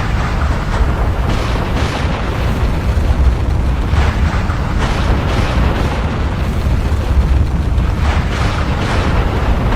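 Volcanic eruption: a continuous deep rumble with surges of hissing noise swelling up every few seconds.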